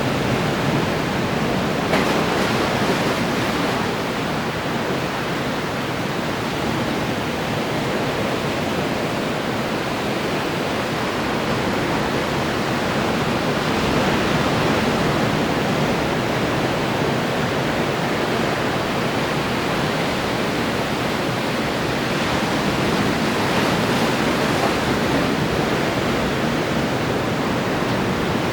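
Ocean surf breaking on the shore: a continuous wash of waves that swells gently a few times.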